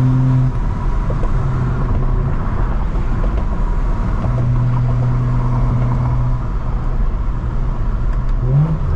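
BMW N55 turbocharged straight-six with a straight-piped exhaust, cruising with a steady drone over road rumble. The drone fades in and out, then climbs in pitch near the end and holds steady at the higher pitch.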